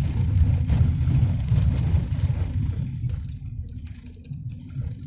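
Low, steady rumble of a car heard from inside the cabin, engine and tyre noise while driving, easing off a little about three seconds in.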